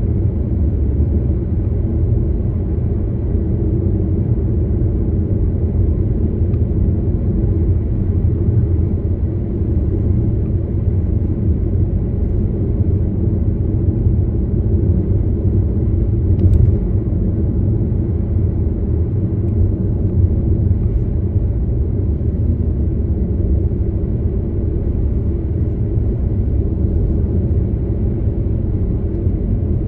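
Steady low rumble of a car on the move, engine and tyre noise without change in speed, with one brief click a little past the middle.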